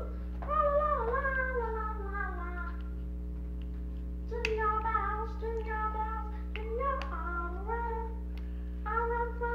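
A battery-powered singing toy playing a song in a small, electronic-sounding voice, in two sung phrases with a short gap between them, over a steady low hum.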